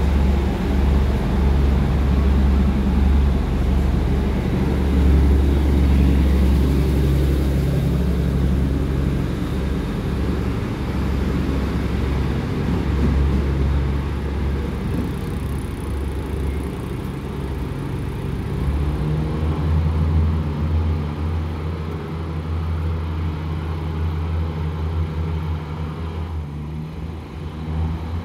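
Diesel commuter train pulling out of the platform and running away down the line, its rumble slowly fading as it leaves, over a steady low hum.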